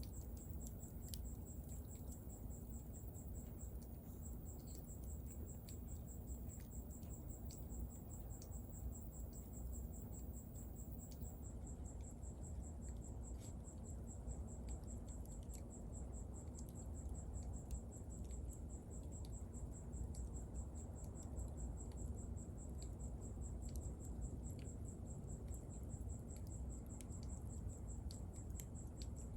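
Wood fire burning, crackling with scattered sharp pops over a low steady rumble, while crickets trill steadily in the background.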